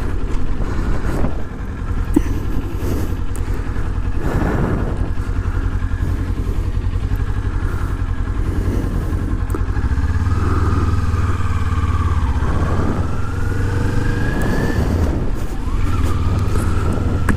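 Motorcycle engine running steadily under way as the bike is ridden, with a whine that dips and then rises about two-thirds of the way through.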